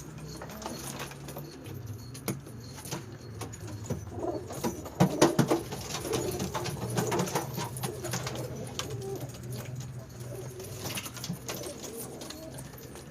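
Domestic pigeons cooing steadily, with a cluster of sharp taps and flutters about five seconds in.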